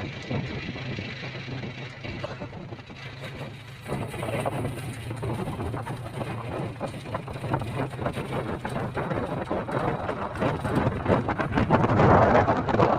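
Vehicle engine running steadily under a rushing road and wind noise, which grows louder near the end.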